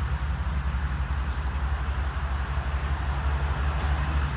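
Wind buffeting the microphone: a steady, gusty low rumble with a hiss over it.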